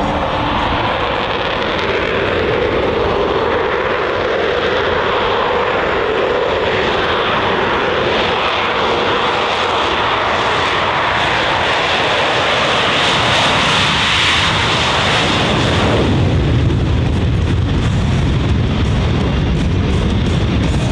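Jet noise of a Boeing EA-18G Growler's twin General Electric F414 turbofans as it flies past: a loud, steady rushing that swells in its upper range, then drops suddenly to a deeper rumble about three-quarters of the way through as the jet passes and moves away.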